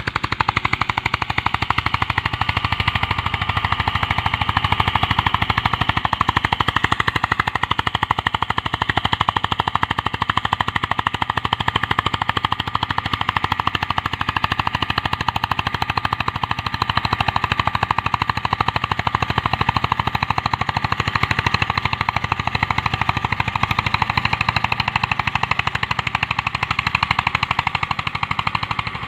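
Eicher 241 tractor's single-cylinder diesel engine running hard at full throttle, pulling a harrow, with a rapid, steady chain of exhaust beats.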